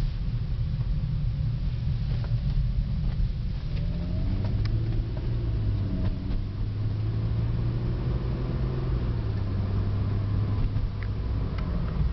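The 2005 Mercedes-Benz SLK350's 3.5-litre V6 and road noise inside the moving car's cabin. The engine note rises about four seconds in, holds steady for several seconds, then eases off.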